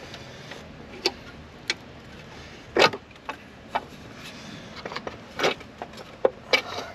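Irregular clicks and knocks of an Audi TT engine's rocker cover being wrestled and pried past a bracket it catches on, as it is worked loose. The loudest knock comes about three seconds in, with a quicker run of them near the end.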